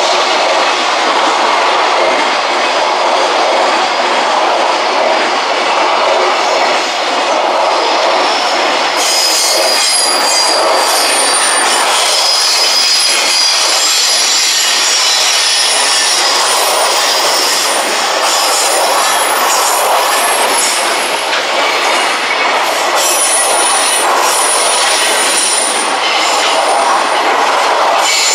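A freight train's container flat wagons rolling past, a steady rumble and clatter of wheels on the rails. From about nine seconds in, high-pitched wheel squeal joins and comes and goes over the rumble.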